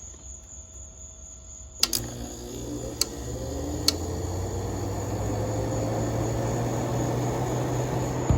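A 1989 Kenmore 5,000 BTU window air conditioner is switched on with a sharp click about two seconds in. It starts with a steady low hum from its Matsushita rotary compressor, while the fan spins up and its whoosh builds and rises over the next few seconds. A couple more sharp clicks come a second or two after start-up.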